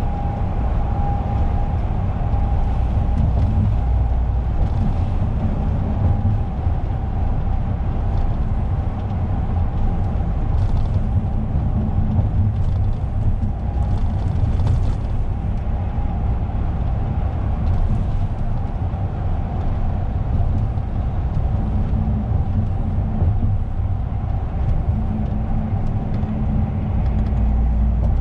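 Lorry engine and road noise heard inside the cab while driving: a steady low rumble with a faint steady whine above it.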